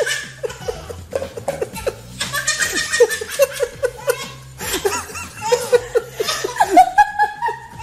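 A baby laughing hard, in runs of short, quick giggles with brief breaks between them.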